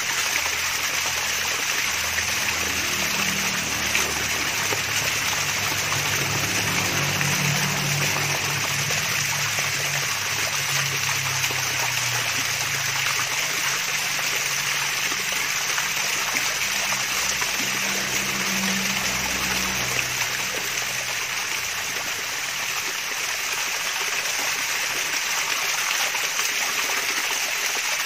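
Water splashing and trickling steadily down a small mini waterfall, a continuous bright rushing sound.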